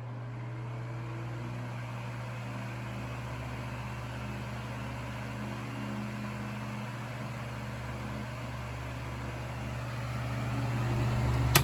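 Vintage 16-inch table fan running: a steady electric-motor hum under the even whir of the blades. A sharp click comes at the very end.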